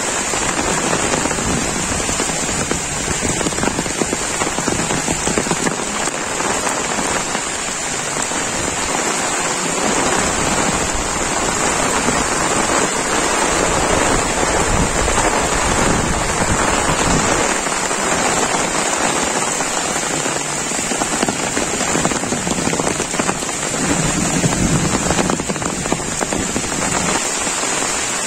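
Heavy monsoon rain falling steadily, a dense hiss of countless drops hitting leaves, ground and puddles.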